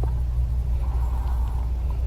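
Steady low rumble of wind buffeting a small action camera's microphone. A faint, short raspy sound rises above it about a second in.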